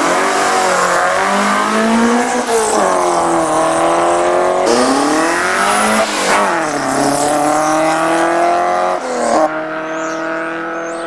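Car engine revving, its pitch rising and falling several times, then settling to a steady run about nine seconds in.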